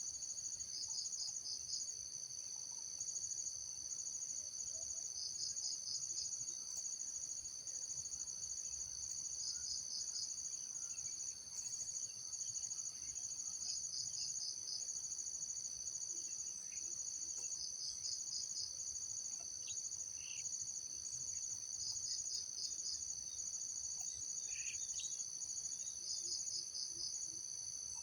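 Steady, high-pitched chorus of insects, with a short pulsed trill repeating about every four seconds. A few faint bird chirps come in during the second half.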